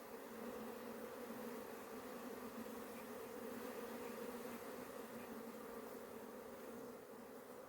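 A mass of honey bees buzzing in a steady, even drone from an opened hive.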